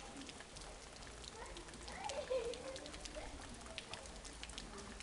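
Steady rain falling, with many scattered sharp drip ticks. A faint distant voice is heard briefly about two seconds in.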